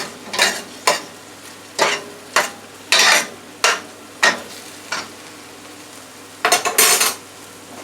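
Chicken pieces sizzling in a frying pan while a utensil is stirred and scraped against the pan in short, sharp strokes, about a dozen of them, some in quick pairs.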